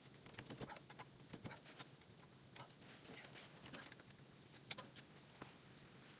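Near silence, with faint, irregular small clicks and taps.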